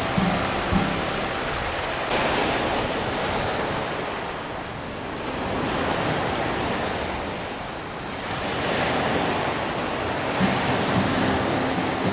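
Ocean surf: waves breaking and washing in, the rush swelling and falling back every few seconds.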